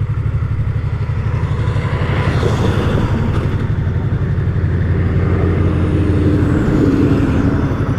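Yamaha MT-03 motorcycle engine running steadily at low revs. Traffic noise swells and passes about a quarter of the way in.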